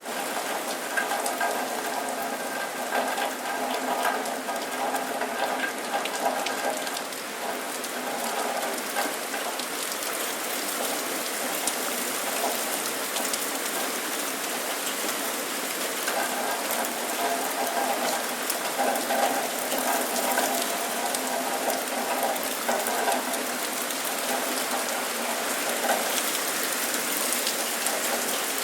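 Steady rain falling, with many individual drops striking a hard surface close by over a continuous hiss.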